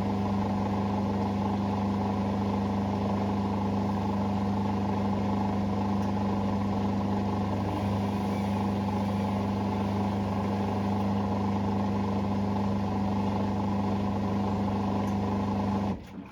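Hoover Sportswear 1300 washing machine running with a steady, even hum that cuts off abruptly near the end.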